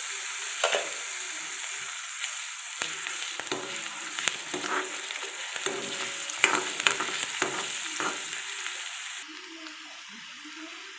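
Chopped onion and garlic paste sizzling in hot oil in a metal kadhai, with a ladle repeatedly scraping and knocking against the pan as it is stirred. The sizzle drops suddenly about nine seconds in.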